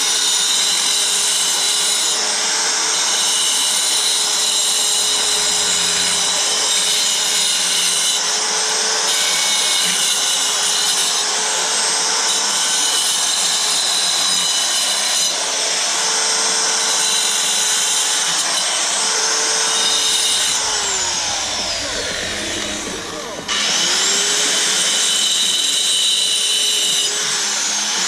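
A motor-driven power tool running loudly and steadily, its pitch sagging and recovering several times as it takes load. About 20 seconds in it winds down, then abruptly comes back up to speed.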